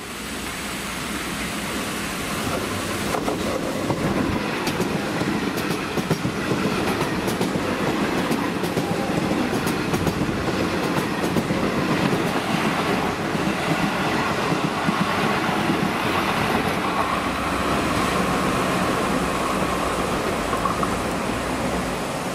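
Comeng electric suburban train running past close by, a steady rumble of wheels and running gear with the wheels clicking over rail joints. It builds over the first few seconds, and a faint whine joins in past the middle.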